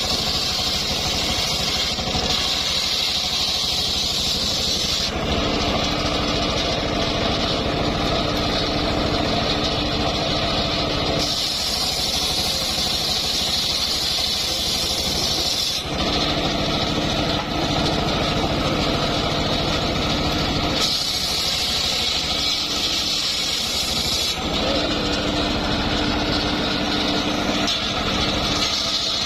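A homemade engine-driven circular sawmill running steadily at full speed, sawing old mahogany. The blade's hiss and the engine drone change character abruptly every few seconds.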